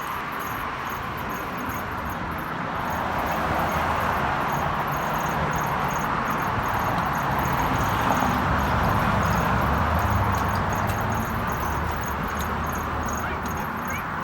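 Wind and tyre noise picked up by a handlebar-mounted camera on a moving bicycle: a steady rushing with a low rumble, swelling louder in the middle and easing off near the end.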